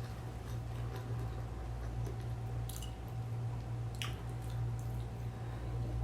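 Close-up eating sounds: soft, wet chewing and squishing of a rice dish, with a few faint clicks. A steady low hum runs underneath.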